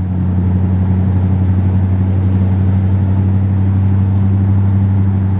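1957 Ford Thunderbird's Y-block V8 running steadily while cruising, its pitch dropping a little at the start and then holding even. It is running well on fresh spark plugs, with its four-barrel carburettor working on only two barrels.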